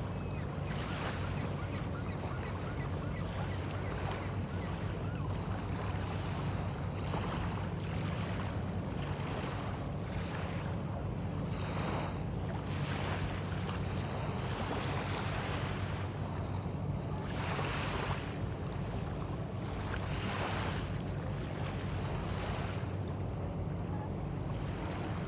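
Small bay waves washing onto the shore every few seconds, over a steady low hum and wind on the microphone.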